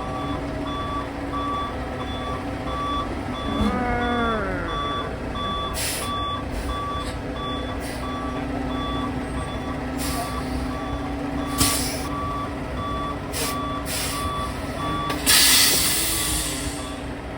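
Heavy truck's backup alarm beeping in an even pulse over its running engine, with a short falling whine about four seconds in. Near the end a loud hiss of air brakes sounds and the beeping stops.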